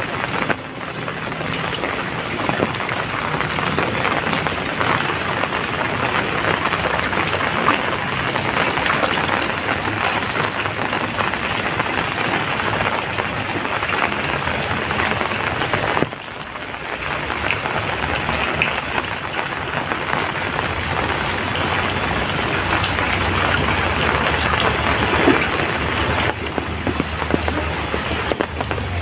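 Heavy rain falling in a steady dense hiss. It dips briefly about half a second in and again around the middle.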